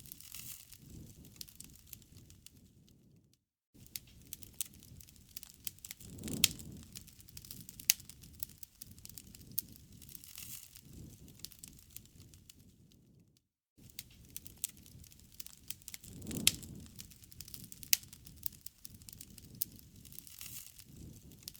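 Wood campfire crackling, with frequent sharp pops and snaps over a low rush of burning. The sound cuts out briefly twice.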